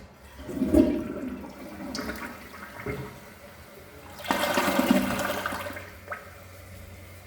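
Corona dual-flush toilet flushing: a rush of water about a second in, then a louder rush of water starting about four seconds in and dying away by about six seconds, followed by a short click.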